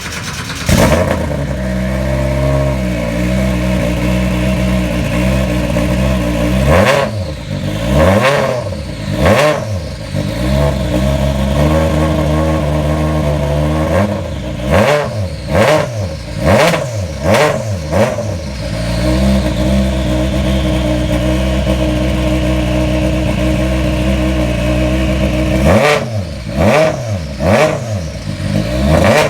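Toyota Yaris WRC's 1.6-litre turbocharged four-cylinder rally engine idling with the car stationary, blipped with sharp throttle revs in three clusters: a few about seven seconds in, a quick run of about five around the middle, and several more near the end. The sound is loud, with some distortion.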